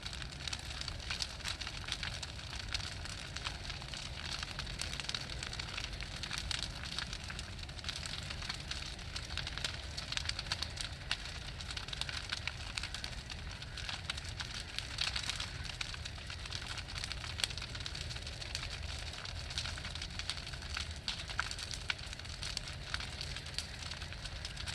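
Large bonfire burning with dense, continuous crackling, over a low steady rumble.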